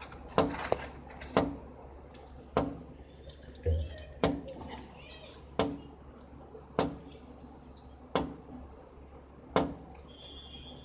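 A bird pecking at a glass window pane: about ten sharp taps of its beak on the glass, spaced roughly a second or so apart, with faint chirps between them.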